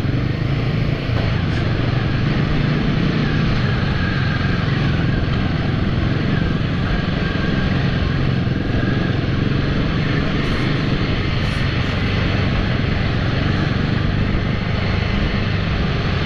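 Royal Enfield motorcycle engine running steadily while riding, with a constant rush of wind and road noise over it.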